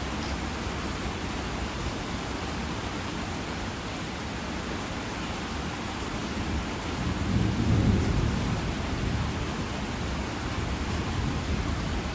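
Steady heavy rain with a low roll of thunder that swells about seven seconds in and fades over a couple of seconds.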